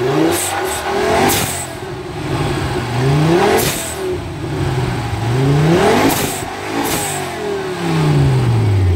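Ford Focus RS engine being revved while stationary: the engine note climbs and drops about four times, with short sharp crackles near the top of the revs.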